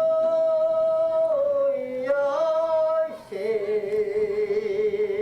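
Korean traditional field-work song (deul-sori) sung in long, drawn-out held notes. About three seconds in the voice moves to a lower held note with a wavering vibrato.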